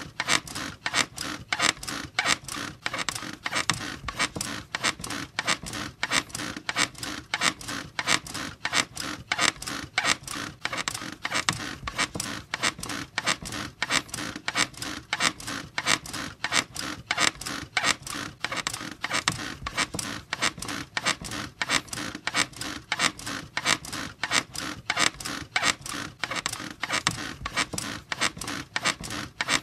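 A squeaky bed creaking over and over in a fast, even rhythm, a few squeaks a second, as if it is being rocked steadily.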